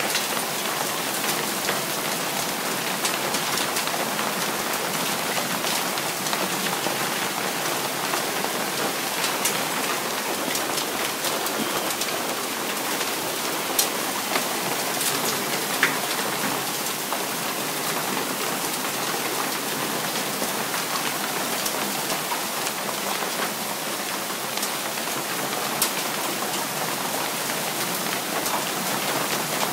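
Heavy rain pouring down steadily, with scattered sharp clicks of impacts, a few louder ones standing out.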